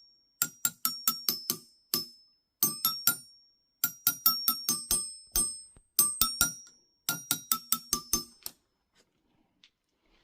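Children's glockenspiel struck with a pen in place of a mallet, playing a simple tune of quick ringing metal notes in short groups. The notes stop about eight and a half seconds in.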